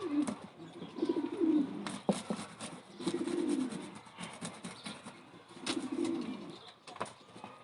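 Pigeons cooing in repeated low, half-second phrases, over scattered sharp clicks and knocks from garlic being crushed and ground by hand.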